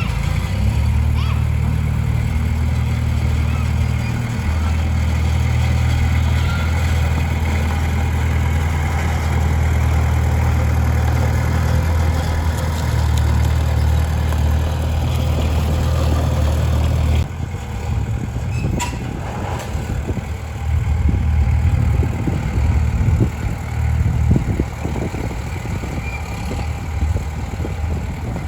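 Heavy diesel engine of earth-moving equipment running steadily. About two-thirds of the way through it changes abruptly to a lower, more uneven engine sound with scattered clanks and knocks.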